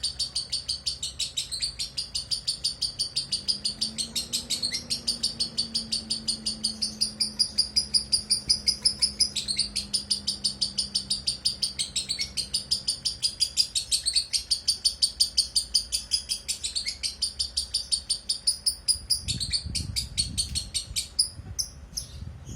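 Lovebird chirping in a fast, steady series of high chirps, about five a second without pause. Near the end the chirps break up and a low rumble comes in.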